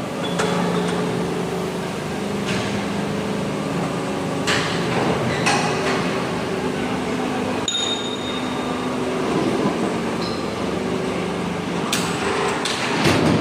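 Steady machine hum carrying a few pitched tones, with about half a dozen sharp metallic knocks and clanks at irregular intervals. A cluster of knocks comes near the end.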